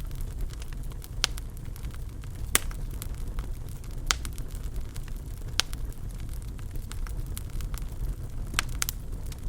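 Wood fire burning in a fireplace: a steady low rumble of flames, with constant faint crackling and sharp pops every second or two, two of them close together near the end.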